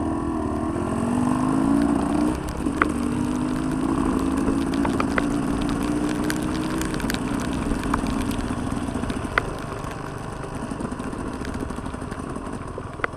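Motorcycle engine rising in pitch over the first two seconds, running steadily, then fading away after about seven seconds, with scattered clicks and knocks.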